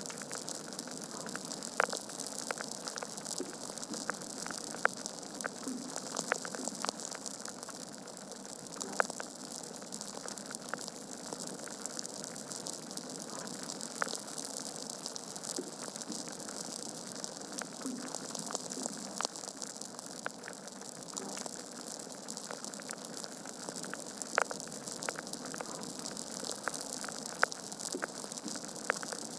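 Wood fire crackling in a fireplace: a steady hiss of burning logs with frequent, irregular sharp pops, a few of them louder than the rest.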